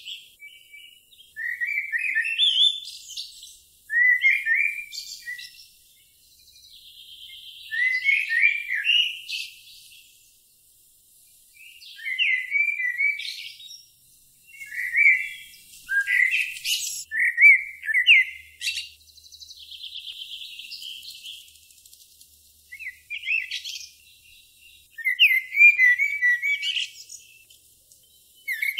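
Birds singing: short chirping phrases every couple of seconds, with a thin buzzy trill in some of the pauses.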